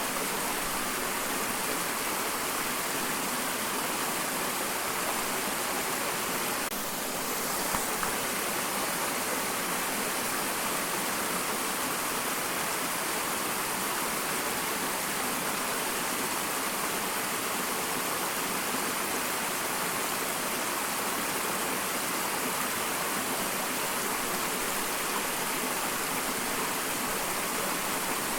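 Small waterfall: water splashing and rushing in a steady, even hiss, with a brief dip and a faint tick about seven to eight seconds in.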